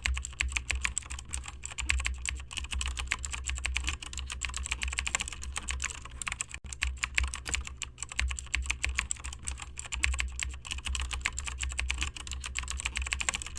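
Rapid, irregular clicking, typing-like, over a steady low rumble.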